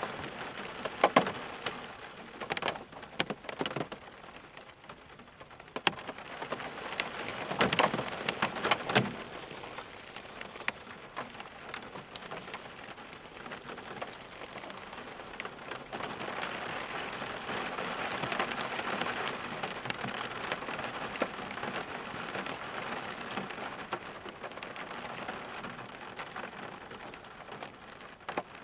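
Rain falling, with sharp individual drops striking a surface in the first ten seconds, then settling into a steadier, even rush of rain.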